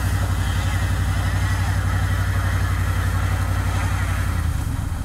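Truck engine running steadily under load as the truck is pulled away from where it slid, then easing off about four and a half seconds in.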